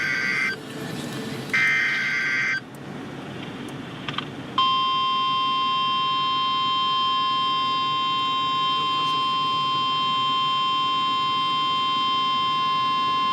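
NOAA Weather Radio emergency alert: a data burst of warbling header tones ends half a second in and another sounds near two seconds in, then the long, steady, single-pitched warning alarm tone sounds from about four and a half seconds in, announcing a severe thunderstorm warning from the National Weather Service. A low vehicle rumble runs underneath.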